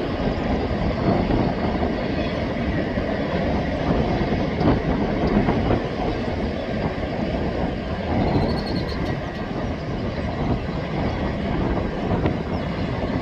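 Coal train's cars rolling past steadily, a continuous rumble of wheels on rail.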